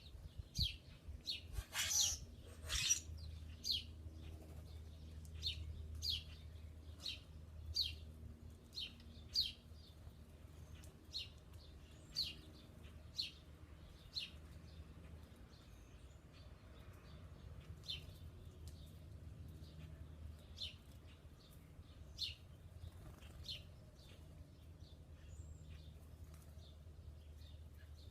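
Small birds chirping: short, high chirps repeating about twice a second, thinning out and coming more irregularly after the first half, with two louder, harsher bursts about two and three seconds in.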